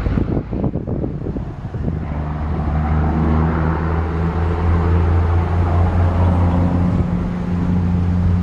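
A motor engine running at a steady speed, with wind buffeting the microphone. The engine hum comes in about two seconds in and cuts off suddenly at the end.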